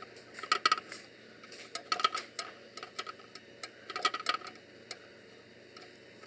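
Small clicks and light taps from handling objects at close range, coming in a few short clusters of rapid ticks.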